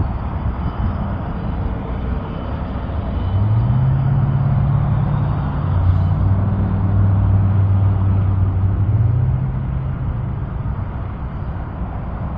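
Steady road and engine noise from a vehicle travelling on a highway. About three seconds in, a louder low engine drone swells and shifts in pitch a couple of times, then fades back into the road noise near the end.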